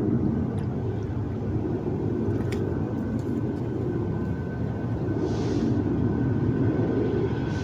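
Class 66 diesel locomotive hauling a freight train along the line, a steady low rumble of the engine and wagons. A thin steady whine comes in about five seconds in, with a brief hiss alongside.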